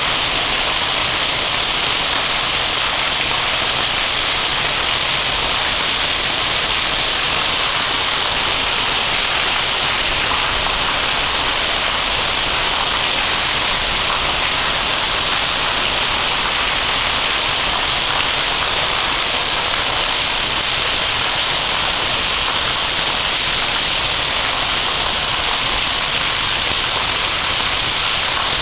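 Heavy monsoon downpour: dense, steady rain on a brick courtyard and tile roof, with runoff pouring off the roof edges and splashing onto the pavers.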